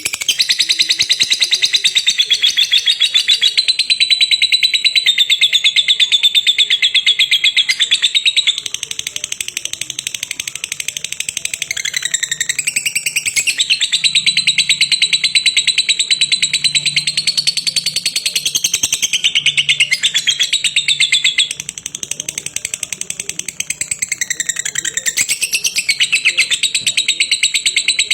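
Lovebird ngekek: a long, very rapid chattering trill of high notes that goes on almost without a break, easing briefly and dipping in pitch a few times.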